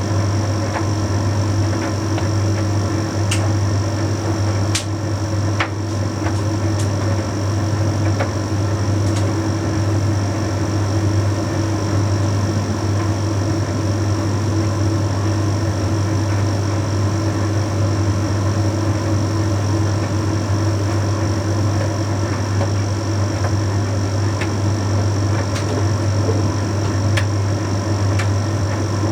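Bosch Series 6 heat pump tumble dryer running mid-way through a Shirts cycle: a steady low hum from its compressor and fan with the drum turning, and a few light ticks.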